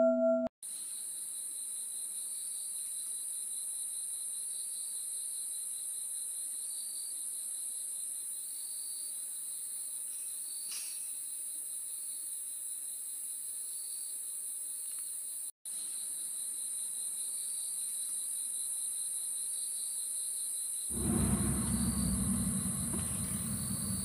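Steady high-pitched insect chorus, crickets or similar, with a fainter pulsing note that swells about every second or so. A low rumble joins near the end.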